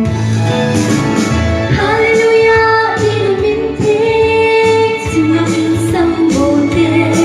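A woman singing, holding long drawn-out notes, over a musical backing with a bass line and a light steady beat.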